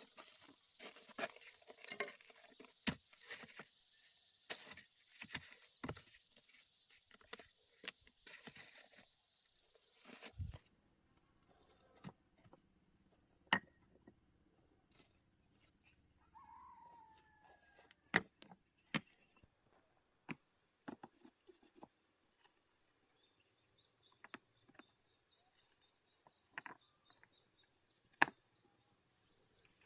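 Birds chirping in quick, repeated falling calls, mixed with many sharp clicks and knocks for the first ten seconds. After that come only scattered knocks and a few lone calls.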